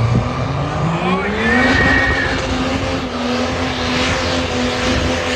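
High-horsepower truck engine revving up under load: its pitch climbs steadily for about a second and a half, then holds at high rpm. A brief high whine comes in near the top of the climb.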